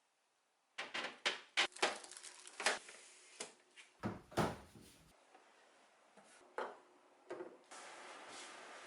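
Clinks and knocks of dishes and containers being handled and set down, a dozen or so sharp strikes with short pauses between them. An even hiss starts near the end.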